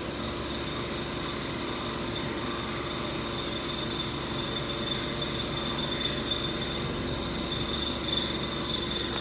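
Haas Mini Mill 2 CNC spindle driving an Iscar single-flute high-feed end mill through 6Al-4V titanium: steady cutting noise with a high, squeaky tone that grows louder in the second half.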